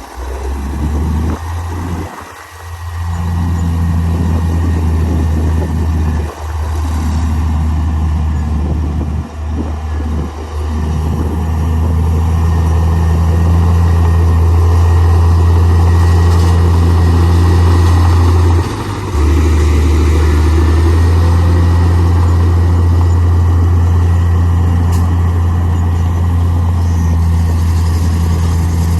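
Heavy diesel earthmoving machinery running with a steady, deep engine drone, broken by a few brief dips in the first ten seconds.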